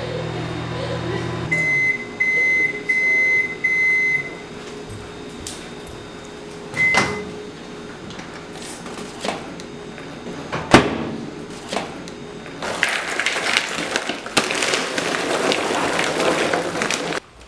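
Microwave oven humming, then stopping and giving four beeps to signal it has finished. A single further beep with a click, a sharp knock, then several seconds of rustling noise that cuts off near the end.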